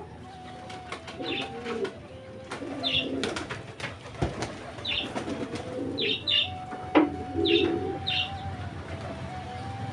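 Domestic pigeons cooing, one low coo after another every second or two, with short high chirps in between and a couple of sharp clicks.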